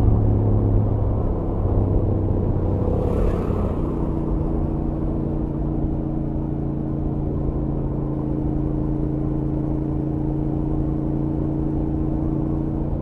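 Stock Royal Enfield Interceptor 650's 648 cc parallel-twin engine running at highway speed under a steady haze of wind and road noise. About four seconds in, the engine note steps up in pitch, then holds a steady cruise. A brief rush of hiss comes about three seconds in.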